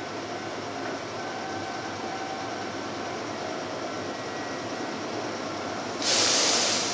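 Kintetsu 15200 series 'Aozora II' train running slowly into the station, a steady rolling rumble with faint steady tones over it. About six seconds in comes a sudden loud hiss lasting under a second.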